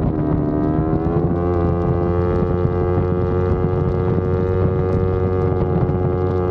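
Yamaha R25's parallel-twin engine and exhaust running under way, with wind rush on the microphone; the engine note dips at the start, climbs over the first second or so, then holds at a steady pitch.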